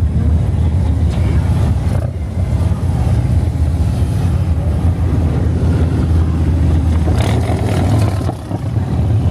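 A convoy of many motorcycles riding past, their engines blending into a steady, loud low rumble, with a brief rise in higher-pitched engine and road noise about seven seconds in.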